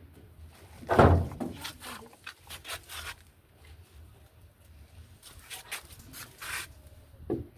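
A series of knocks and clicks of hard objects being handled, with one loud knock about a second in.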